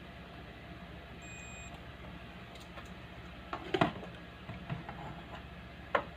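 Speaker humming: a steady low electrical hum. A brief faint beep about a second in, and knocks a little before four seconds and just before the end, the first the loudest.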